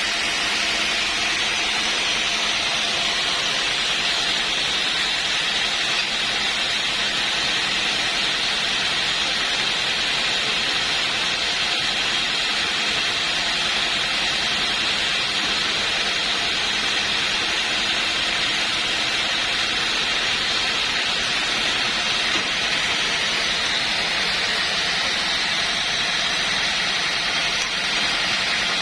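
Sawmill saw running steadily as it cuts through a log: an even, hissing machine noise that holds at one level throughout.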